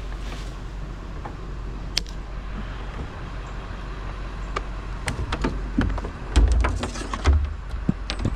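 A steady low engine drone with scattered sharp clicks and knocks, and a few louder thumps about six to seven seconds in.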